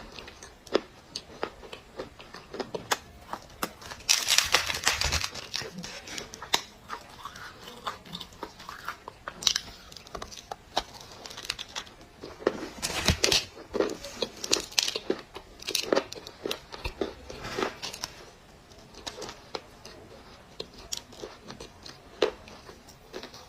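Clay being crushed and crumbled, crunching and crackling in a quick string of sharp snaps, with louder, denser crunches about four seconds in and again around thirteen seconds.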